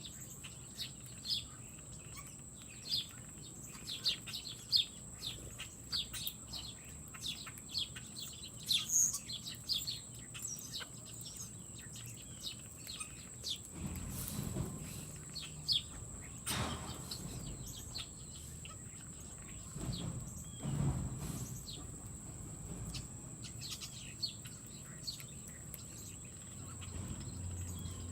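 Small songbirds chirping in quick, short calls, busiest in the first half, over a steady high-pitched whine. A low rumble swells twice in the second half.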